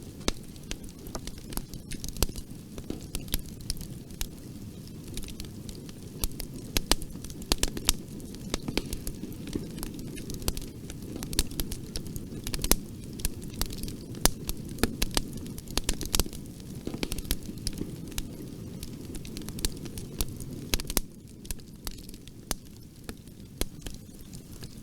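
Bonfire burning: a steady low rumble of flames with frequent sharp, irregular crackles and pops from the burning wood.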